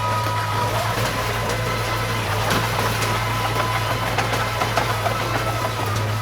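Diesel engine of heavy earthmoving machinery running steadily, with a constant high whine over its low hum and scattered small clicks.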